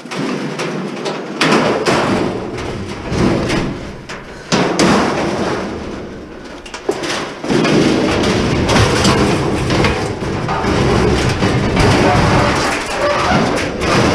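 Metal parts of a scrap appliance banging and clattering as it is pulled apart: repeated knocks, then several seconds of continuous rattling and scraping in the second half.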